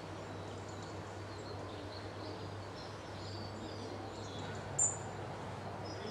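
Small songbirds chirping and twittering faintly over a steady background hiss and a constant low hum. One sharp, high chirp, the loudest sound, comes close to the microphone about five seconds in.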